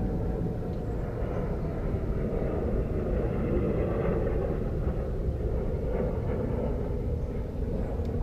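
A steady low rumble, a little louder about halfway through.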